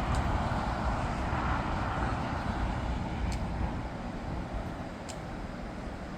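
Jet airliner engines heard from the ground as a steady rushing noise with a deep rumble, slowly fading as the plane moves away. Two faint clicks come through about three and five seconds in.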